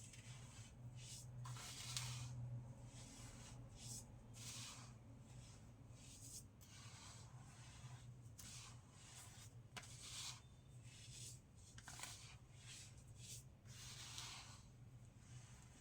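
Fresh baking soda being crushed and crumbled, giving faint, irregular dry crunches roughly once a second, over a steady low hum.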